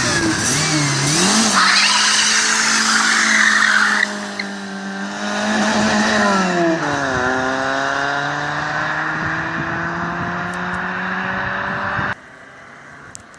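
VAZ-2112 engine being revved and held at raised revs, with a steady high-pitched whistle over the engine note. Revs rise about a second in, drop and climb slowly again past the middle, and the sound cuts off suddenly near the end.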